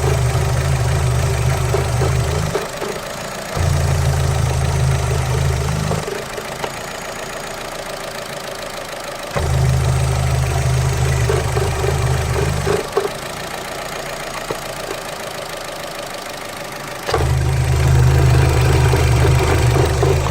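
Opel Astra H's 1.8-litre four-cylinder Z18XER engine idling with the oil filler cap off: a loud, deep drone comes and goes four times, each time for about three seconds, over the quieter running engine. The owner does not know whether this noise from the open filler is a sign of a fault.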